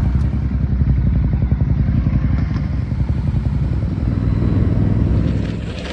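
Motorcycle engine running with a steady low exhaust beat, growing a little louder about five seconds in, then easing off near the end.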